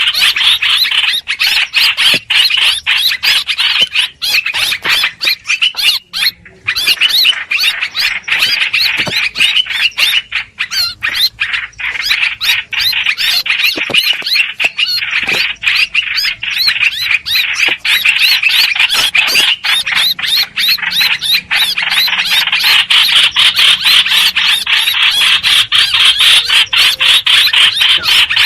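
Recorded calls of the hoành hoạch bird, played as a decoy lure for bird trapping: a dense, unbroken stream of rapid chattering notes, with a short gap about six seconds in.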